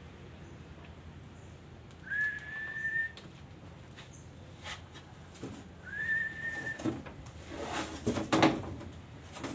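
Black-naped oriole giving two clear whistled notes a few seconds apart. Each note slides briefly upward, then holds steady for about a second. Near the end comes a burst of rustling or knocking noise, the loudest part.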